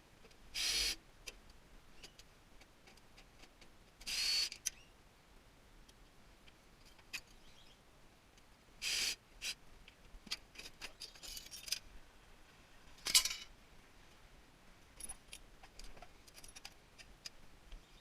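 Work on a tankless water heater during a scrap teardown: four short bursts of tool noise, each about half a second and a few seconds apart, with scattered light clicks and rattles of small metal parts between them.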